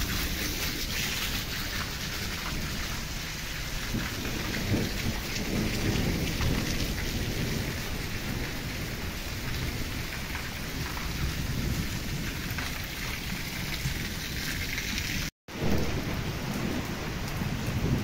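Heavy rain pouring steadily, with water gushing from a drainpipe onto the ground at first and a deep rumble underneath. The sound cuts out for a split second about 15 seconds in.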